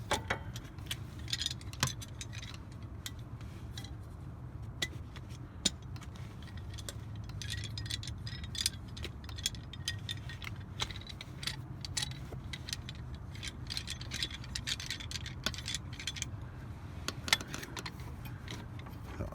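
Scattered light metallic clicks and clinks of tools and brake parts being handled, over a steady low hum.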